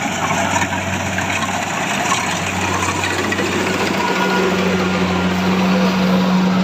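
Engine of a rice harvesting machine running steadily with a constant hum, which strengthens a little past three seconds in.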